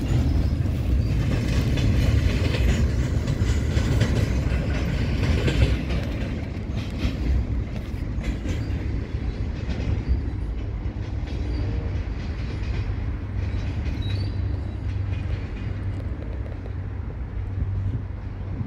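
Intermodal container freight train rolling past: a steady rumble of steel wheels on the rails with scattered clicks, easing off about six seconds in as the last wagons pull away.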